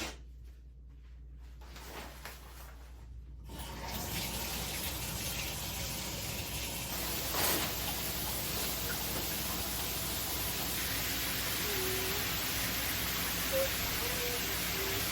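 Water running from a tap into a sink. It starts about three and a half seconds in, after a few faint handling clicks, and then runs steadily.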